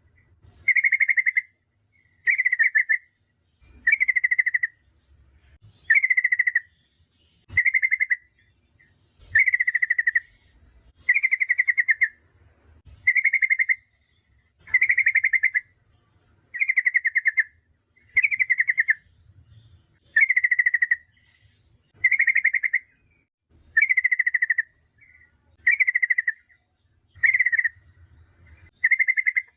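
Yellow-vented bulbul (trucukan) giving a short chattering call of rapid notes, repeated at an even pace about every two seconds: a female's call to a male.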